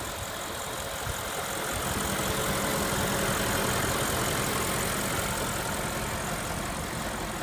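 2014 Audi S6's 4.0-litre TFSI twin-turbo V8 idling steadily with the hood open, growing a little louder for a few seconds midway.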